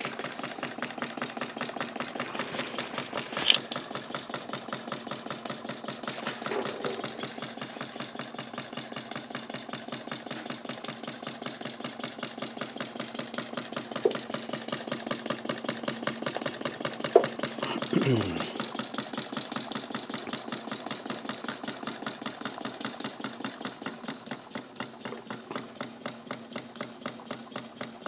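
Homemade model steam engine running on live steam, its fast, even exhaust chuff keeping up a steady beat that slows a little and grows more distinct near the end. A sharp click comes a few seconds in, and a brief falling tone sounds about two-thirds of the way through.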